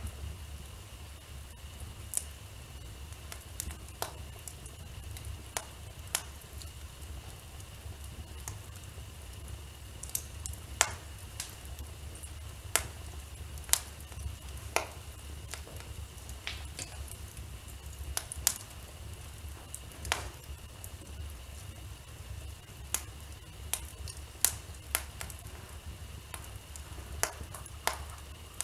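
Wood fire burning in a fireplace, crackling with irregular sharp pops over a low steady rumble, with a faint steady high whine underneath.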